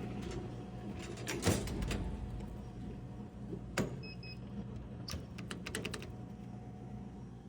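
Sharp clicks and knocks of handling at a vending machine, with a quick series of clicks about five to six seconds in. Two short electronic beeps sound about halfway through, over a steady low hum.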